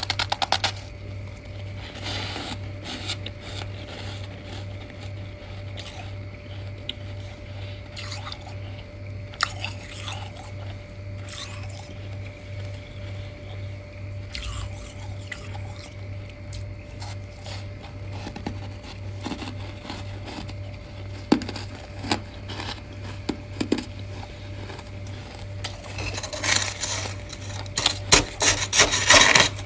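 Freezer frost being bitten and chewed close to the microphone, with scattered crunches and squeaks. Near the end it turns into a fast run of loud crunches.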